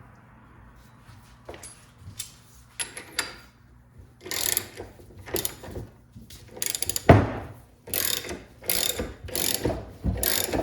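Ratchet wrench clicking through repeated strokes, about one a second from about four seconds in, after a few lighter clicks; it is being worked to force free a stuck bearing cap on a double Cardan driveshaft joint.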